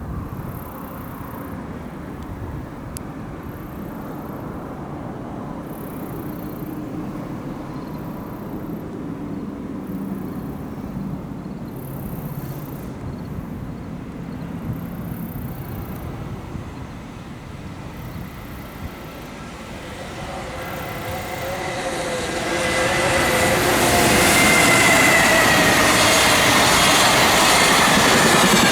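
Electric freight locomotive hauling a full container train on approach: a low rumble that grows louder from about twenty seconds in, joined by the locomotive's high-pitched traction-motor whine and rail noise, loudest near the end.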